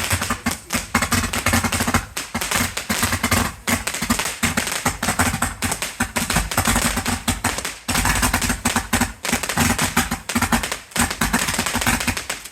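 Fireworks crackling: a dense, continuous run of rapid small pops.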